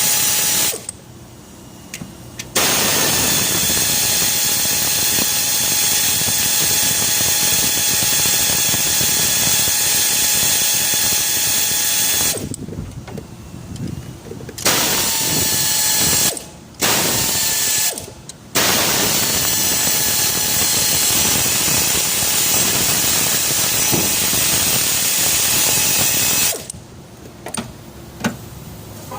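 A power tool running in long bursts of several seconds with a steady whine over a loud hiss. It stops briefly about four times.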